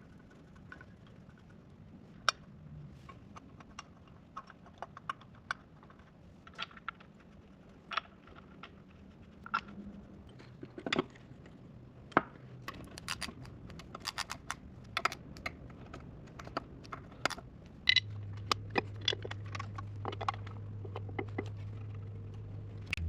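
Scattered sharp metallic clicks and clinks of hand tools and bolts being worked on engine parts, coming more often in the second half. A steady low hum comes in about eighteen seconds in.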